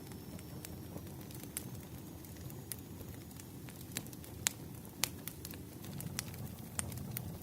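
Wood fire crackling: irregular sharp pops and snaps over a low steady rumble, with the loudest pops a little past halfway.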